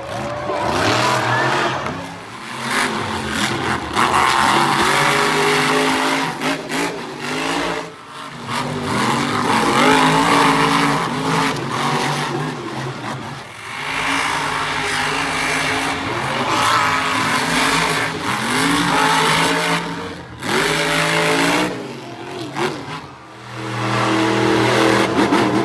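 Monster truck engine revving hard over and over, its pitch climbing and falling with each burst of throttle and briefly cutting out several times.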